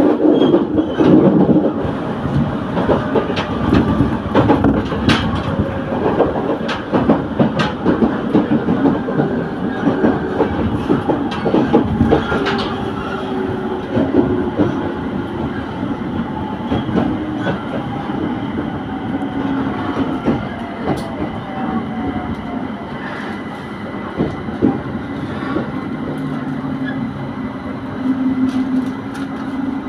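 Electric train running on the rails, with a continuous rumble and irregular clicks of the wheels over track joints. Its motor tone falls slowly in pitch as the train slows, then holds a steady low tone near the end.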